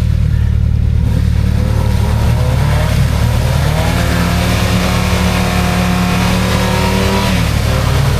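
A 4x4's engine revving as it tries to reverse out of a deep mud hole without getting free. The revs climb about three and a half seconds in, hold for a few seconds, then drop back near the end.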